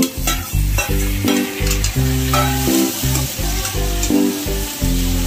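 Chopped tomatoes sizzling in hot oil with fried onions in a kadhai, a slotted metal spatula stirring and scraping against the pan: the onion-tomato base for dal being fried. Background music with a bass line plays underneath.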